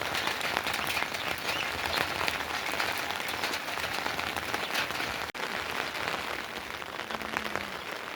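Steady rain falling, a dense, even patter of drops, with a momentary break about five seconds in.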